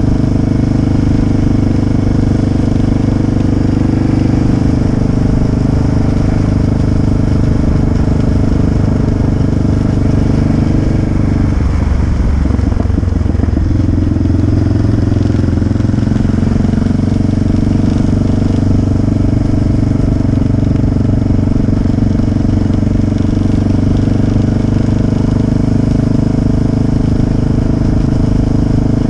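Motorcycle engine running steadily while riding. About twelve seconds in, the engine note breaks up and shifts for a couple of seconds, then settles back to a steady note.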